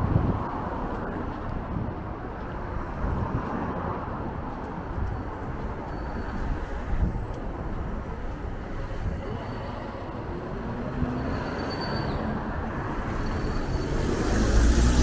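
City street traffic: cars passing on the road, with strong wind buffeting the microphone in low rumbling gusts. A vehicle grows louder near the end.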